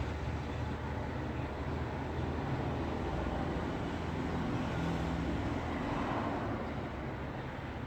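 Road traffic noise: a steady, low rumble of vehicles on a road, with no breaks.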